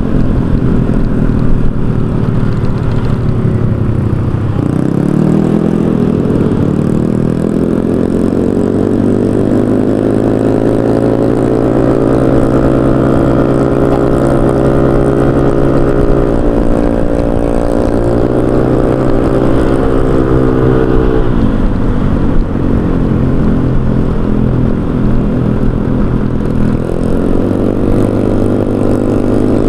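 Honda Vario 125 scooter's single-cylinder engine through an aftermarket racing exhaust while riding, its pitch climbing smoothly as it accelerates and holds speed, easing off briefly twice, then dropping low for several seconds before climbing again near the end.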